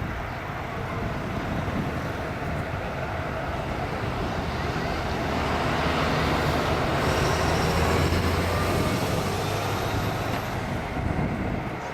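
Airbus A380's four jet engines passing by in a flyover: a broad rumble with a low drone that swells to its loudest about two-thirds of the way through and then eases off.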